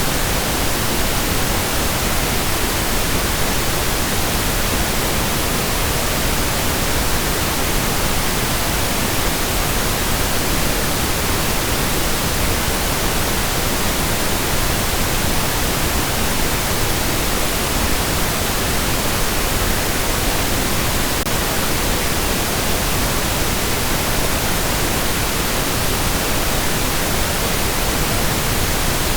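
Steady pink noise: an even, unchanging hiss spread across all pitches, with a soft, rumbling low end.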